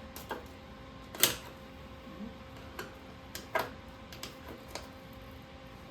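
Tools and metal being handled at a car repair: a handful of sharp clicks and knocks at irregular intervals, the loudest about a second in, over a faint steady hum.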